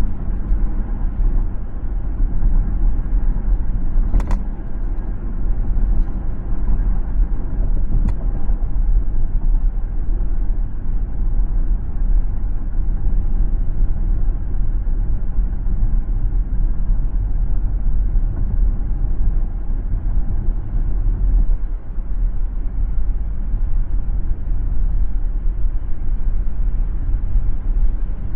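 Steady low road rumble of a car driving, tyre and engine noise. A sharp click comes about four seconds in, and a fainter one about eight seconds in.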